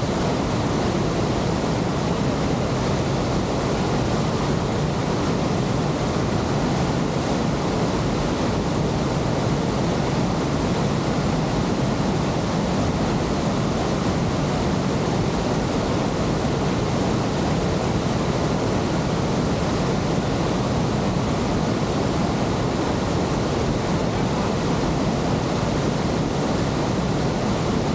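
The falling water of Victoria Falls on the Zambezi River, a loud steady rush of water without let-up.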